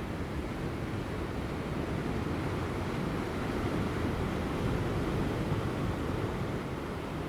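Ocean surf breaking on rocks offshore: a steady rumbling wash with no single distinct crash, with light wind.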